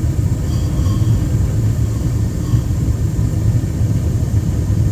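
Carrier gas furnace running in its heat cycle, a steady low rumble from the inducer fan and burners. The blower motor is not spinning, which the technician puts down to a failed blower motor.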